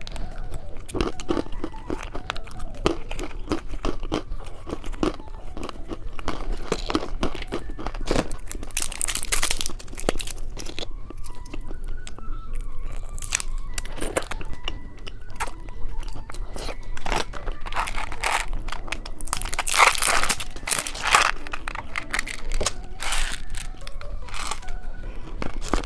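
A person biting, crunching and chewing candy snacks close to the microphone, in irregular clusters of crunches. The loudest crunches come at about 9 seconds in and again at about 20 seconds in.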